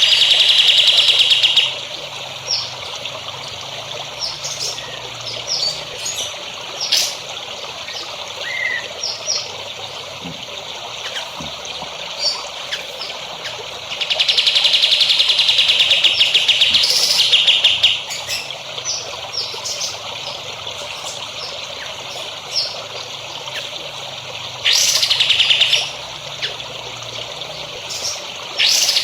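A songbird gives fast, buzzing trills, three or four of them, the longest lasting about four seconds, with short high chirps in between. Underneath runs a steady trickle of water.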